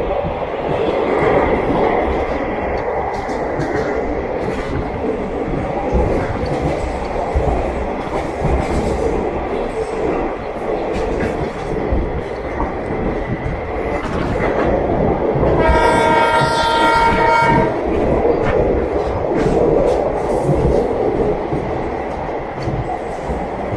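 Moving train heard from on board: steady rumble of the wheels on the rails with clacking over the rail joints. Its horn sounds once for about two seconds, a little past the middle.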